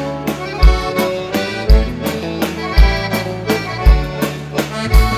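Instrumental passage of a bandinha waltz, led by accordion over a steady beat with a strong low bass stroke about once a second.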